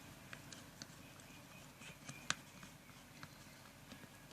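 Slime mixture being stirred, the glue partly clumped by activator: faint scattered small clicks and ticks, with one sharper click about two seconds in.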